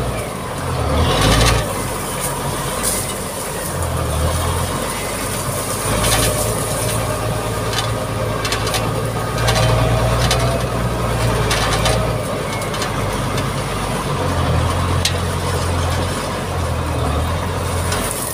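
Mitsubishi MG330 motor grader's diesel engine running, its low drone swelling and easing as the load changes, with scattered sharp knocks.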